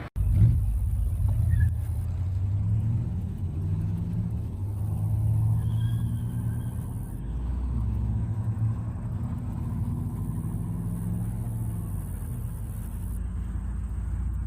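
A car engine running at low revs with a deep exhaust note, swelling a little about halfway through and then settling back.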